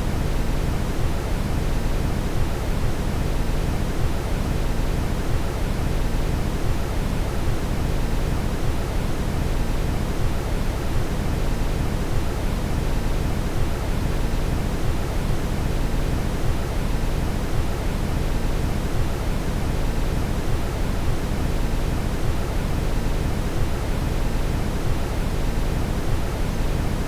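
Steady brown noise: a continuous, even rumbling hiss heaviest in the low end, unchanging throughout.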